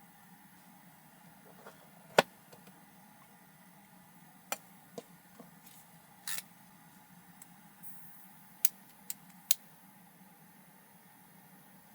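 Scattered sharp clicks and taps over quiet room tone: about seven in all, the loudest about two seconds in, and a cluster of three near the end.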